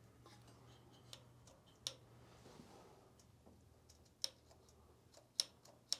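A handful of light, sharp clicks and taps from small metal carburetor parts, the float and float bowl, being handled during reassembly. The loudest click comes about five seconds in, over a faint steady low hum.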